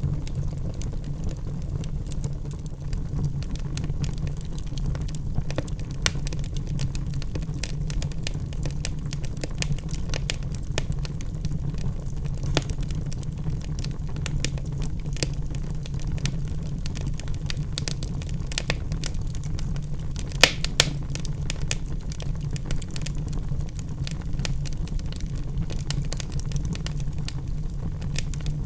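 Wood fire burning in a fireplace: a steady low roar of the flames with constant small crackles and snaps from the burning logs, and two louder pops in quick succession about two-thirds of the way through.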